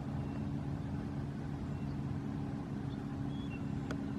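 Power wheelchair's electric drive motors running, a steady hum with a constant low whine.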